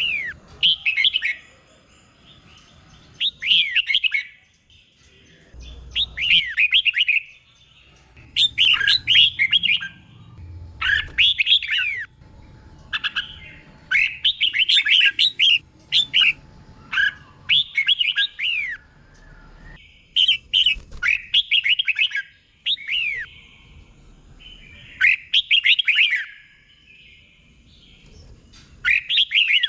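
Red-whiskered bulbul singing: about a dozen short phrases of quick, falling whistled notes, each phrase about a second long with short pauses between them.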